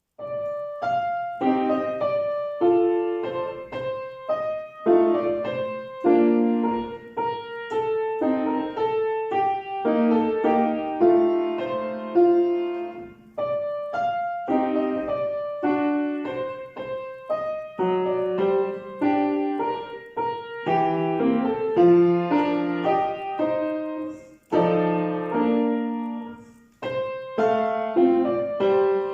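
Solo piano playing a slow children's classical piece, a melody over chords, starting right at the outset and moving in short phrases with brief pauses between them.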